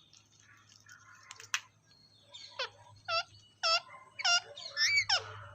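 Parrot giving a run of short squeaky calls, about two a second, starting about halfway in; the last call slides upward. Before the calls there are only a few faint clicks.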